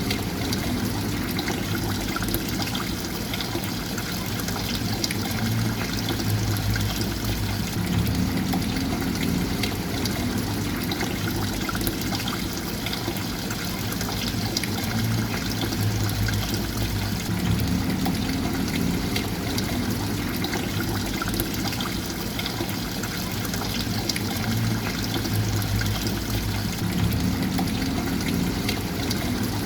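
Steady trickling and pouring water, with a low rumble underneath that swells and eases about every nine seconds.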